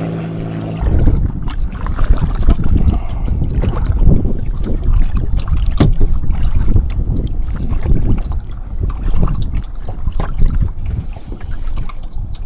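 Wind buffeting the microphone on a kayak being paddled: a loud low rumble broken by irregular splashes and knocks from the paddle strokes. A steady hum stops under a second in.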